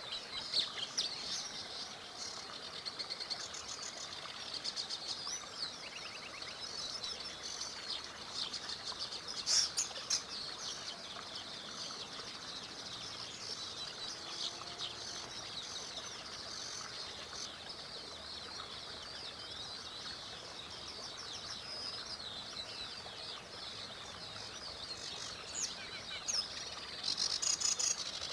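A chorus of small songbirds chirping and trilling without a break, many high, quick notes overlapping, with brief louder bursts of calls about ten seconds in and near the end.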